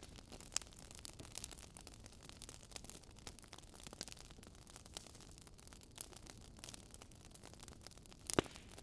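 Wood fire crackling in a fireplace: irregular small crackles and pops, with one louder pop near the end.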